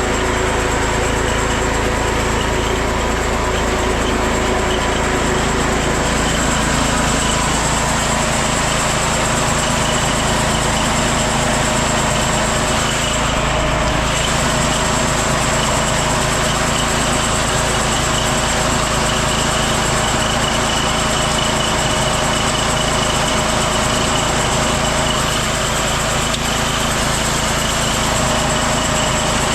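Small gasoline engine of a homemade band sawmill, running steadily at constant speed.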